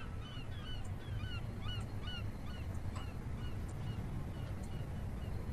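Birds outside calling in a quick series of short chirps, a few a second, over a steady low rumble of background ambience.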